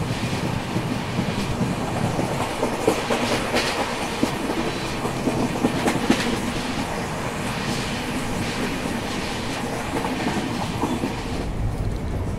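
Express passenger train running fast, heard from an open coach doorway: a steady rumble of wheels on rail with clickety-clack knocks over the rail joints. The sound turns a little duller near the end.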